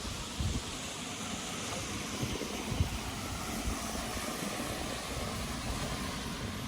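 Steady rain falling, an even hiss, with uneven low thumps underneath.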